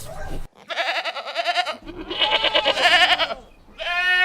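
Goat bleating: three long, quavering bleats, the last one starting near the end.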